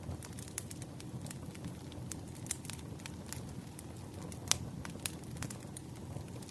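Wood fire burning, with a steady low rumble and irregular sharp crackles and pops, the loudest pop about four and a half seconds in.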